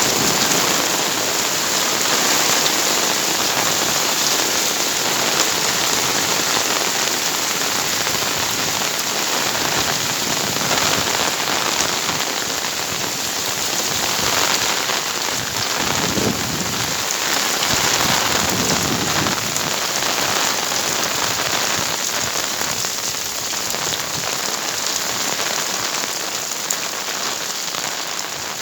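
Heavy rain pouring steadily, a dense even hiss of rain striking surfaces, with a low rumble swelling briefly a little past the middle.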